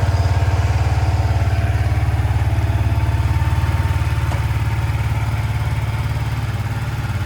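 Yamaha XSR125's 125 cc single-cylinder four-stroke engine idling steadily just after being started, a quiet, even-running idle.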